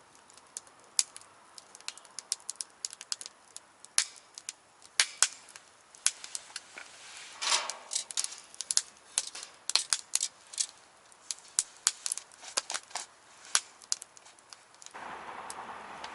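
Burning firewood crackling, with irregular sharp pops and snaps and a short hissing flare about halfway. A steady hiss comes in near the end.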